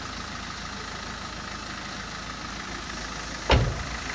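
Car engine idling steadily, with one sudden loud thump about three and a half seconds in.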